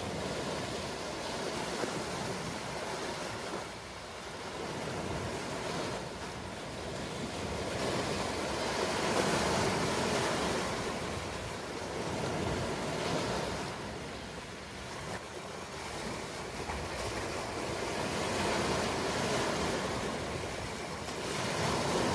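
Ocean surf: waves washing in, swelling and falling away every few seconds.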